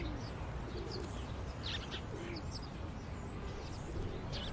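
Birds chirping a few times over a steady background hiss of outdoor ambience.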